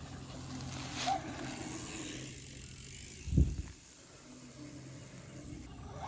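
RC racing buggy running on a dirt trail, a faint steady hum, with one sudden low thump about three and a half seconds in.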